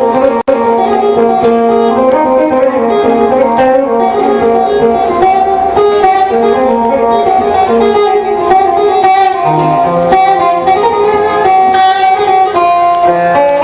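Instrumental interlude of a Turkish folk song: plucked string instruments play a busy melody with no singing. There is a momentary dropout in the sound about half a second in.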